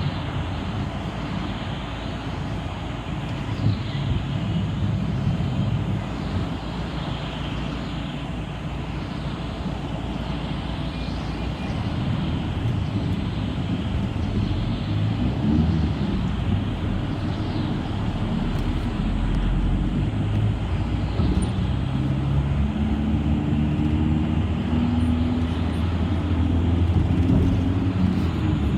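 City bus riding along: steady engine and road noise, with the engine note growing louder and climbing in steps over the last several seconds.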